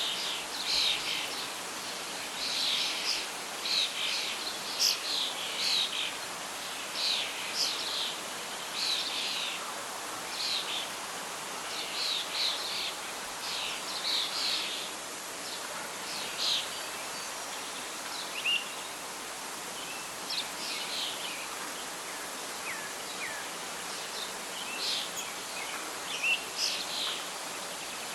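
Birdsong: many short chirps and calls from several birds over a steady rustling hiss of wind in leaves. The calls thin out for a while midway and pick up again near the end.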